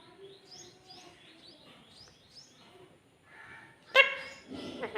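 Pet parrot vocalising: soft chirps and whistles, then a loud, sharp squawk about four seconds in and a shorter call near the end.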